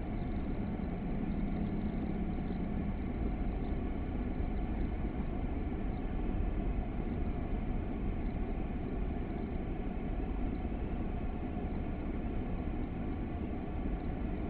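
Steady low rumble of a stationary car idling, heard from inside the closed cabin.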